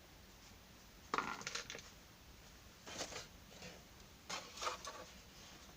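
Small hard objects being handled, clicking and clattering in three short bursts.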